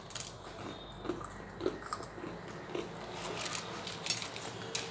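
People biting and chewing food with their mouths alone, giving irregular small crunching clicks and wet mouth sounds.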